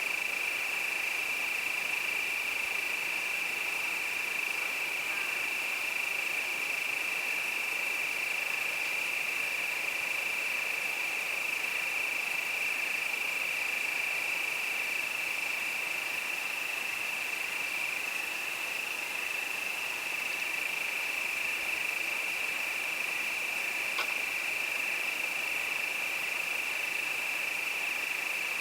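Crickets singing in a steady, unbroken high-pitched chorus, with one faint click about three-quarters of the way through.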